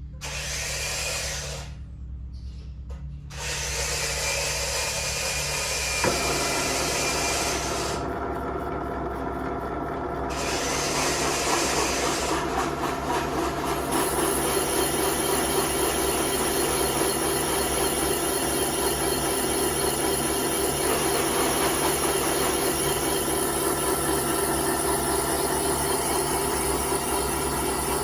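Engine machine-shop tool cutting metal on a Ford tractor engine block: a steady motor hum under a continuous rubbing cut. The cut gets louder about three and a half seconds in and again about twelve seconds in.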